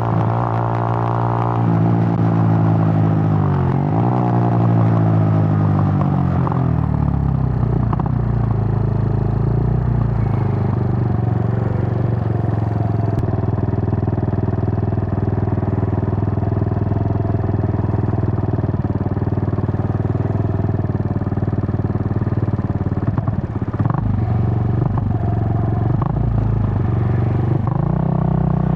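Suzuki GN125's single-cylinder four-stroke engine under way, changing pitch through gear changes in the first few seconds, then holding a steady drone at cruising speed. Near the end the revs rise again.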